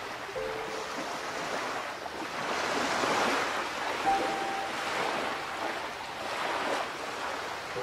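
Sea waves washing and splashing, swelling and easing every few seconds, with a brief high squeak about four seconds in.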